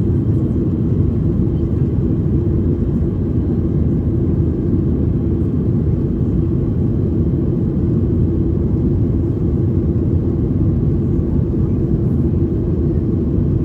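Airliner cabin noise: a steady, loud low rumble of engine and airflow heard from inside the passenger cabin.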